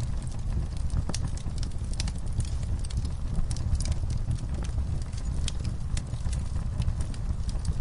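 Fire burning in a fireplace: a steady low rumble with irregular sharp crackles and pops, several a second, some louder than others.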